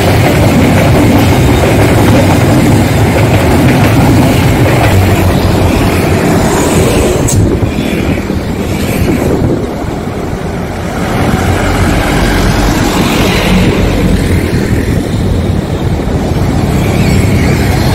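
Passenger train passing close by, a steady rumble and rattle of coaches on the rails. About seven seconds in it gives way to road traffic, with motorcycles and a truck passing.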